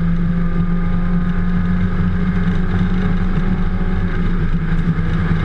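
Mini John Cooper Works race car's turbocharged four-cylinder engine running hard at steady, high revs, heard from inside the cabin.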